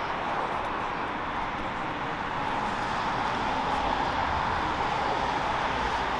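Steady vehicle noise, an even hum that grows slightly louder about two and a half seconds in.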